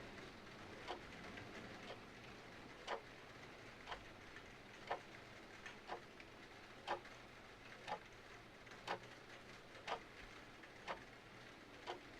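Mechanical clock ticking steadily, about one tick a second, over a faint even hiss of rain.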